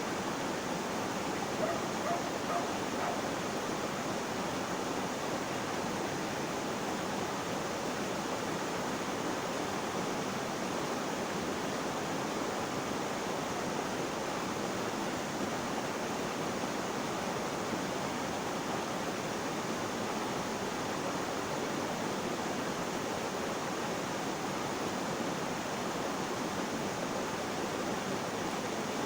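Flowing water making a steady, even rushing sound without let-up.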